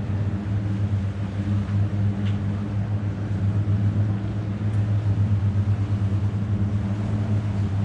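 Longtail boat engine running steadily, a low, even hum.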